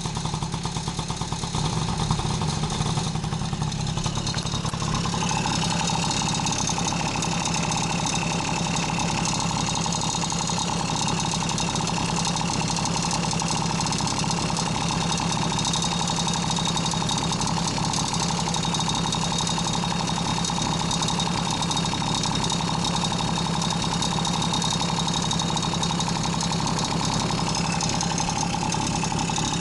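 Honda Motocompo NCZ50's small 49cc two-stroke engine running steadily at idle, stepping up a little in loudness about two seconds in and taking on a higher steady note around five seconds, then holding even.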